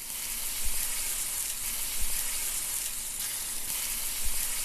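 Food frying with a steady, loud sizzle that cuts in suddenly, with a few soft low thumps in it.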